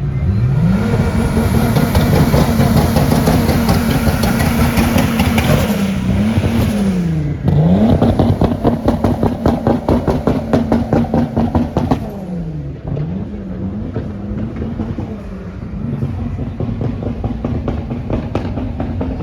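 Car engine revved hard over and over: the pitch climbs, holds flat at the top with a rapid stutter, then drops and climbs again. The hardest, most stuttering hold comes from about 8 to 12 seconds in.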